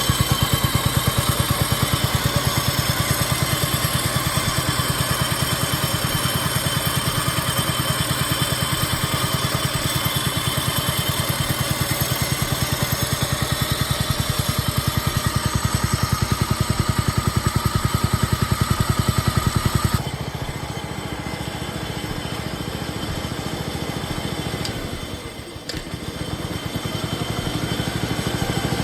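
Craftsman lawn tractor's small engine running steadily at idle, now that its carburetor is freed of a jammed needle valve. About two-thirds of the way through it drops to a quieter level, with a brief dip shortly after.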